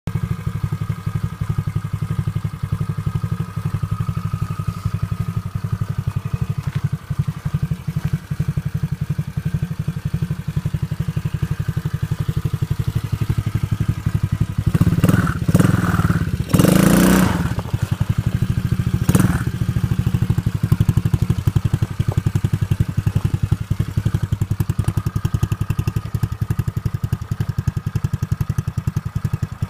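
Chinese 110cc pit bike's single-cylinder four-stroke engine idling with a steady, fast exhaust beat. Midway there are a few short, louder noisy bursts lasting about a second or two in all.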